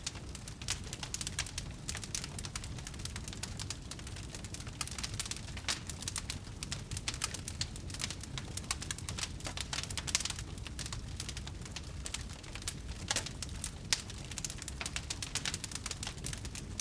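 Wood fire crackling in a fireplace: a dense, irregular run of small pops and snaps over a low, steady rumble of burning, with a few sharper pops partway through.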